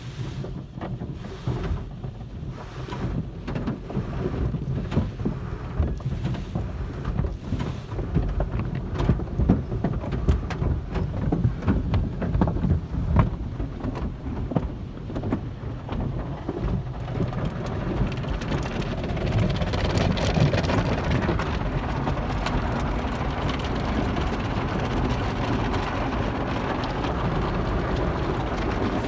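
Automatic car wash running over a car: water spray drumming on the body with repeated thumps about once a second, then a louder, steady hiss of spray taking over about two-thirds of the way in.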